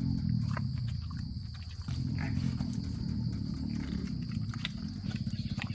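Large wild pig making a low, continuous grunting rumble that turns into a fast pulsing near the end, with scattered clicks over it.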